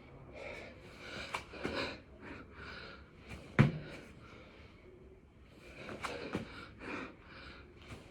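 A man breathing hard in heavy puffs and gasps while doing six-count burpees, with one loud thud of a body or feet hitting the floor about halfway through.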